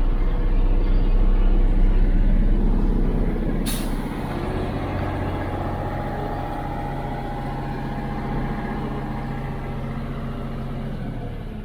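IFA L60 truck's diesel engine running steadily, heard from inside the cab. A short hiss about four seconds in, after which the engine runs a little quieter.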